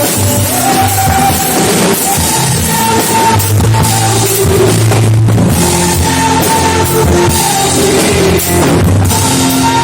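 Loud band music with a drum kit, a strong bass line and long held notes, played without a break.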